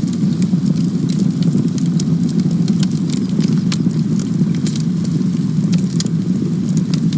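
Campfire burning: a steady low rumble of the flames with frequent sharp crackles and pops from the burning wood.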